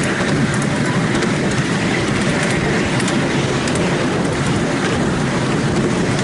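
Miniature steam railway train running along its track, heard from one of the open passenger cars: a steady rumble of wheels on rails with scattered light clicks.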